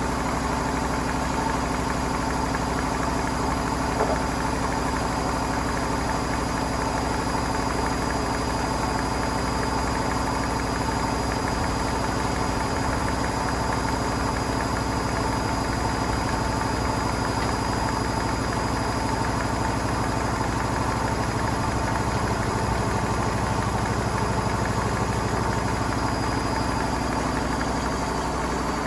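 Hotpoint Smart Tech WMFUG742 washing machine running steadily with bricks in the drum, a constant motor hum and whine, with a single light knock about four seconds in. Near the end the hum drops and the whine falls in pitch as the drum slows.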